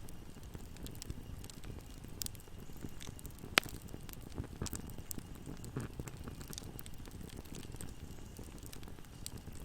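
Wood fire burning in a fireplace: a steady low rumble with scattered crackles and pops, one sharp loud pop about three and a half seconds in.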